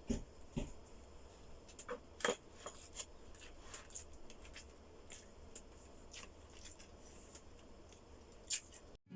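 Faint eating sounds: scattered small clicks and smacks of chewing and handling food, with a couple of soft thumps about half a second apart at the start.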